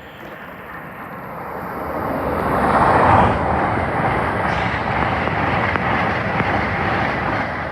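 LNER Class 800 Azuma train passing through the station at speed without stopping: a rush of wheels and air that builds to its loudest about three seconds in and stays loud as the carriages go by, easing off near the end.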